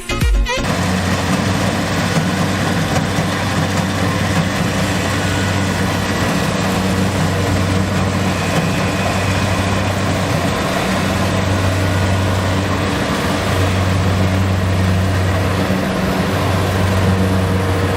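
Heavy construction or farm machine's engine running steadily, a deep constant hum under a noisy mechanical rumble.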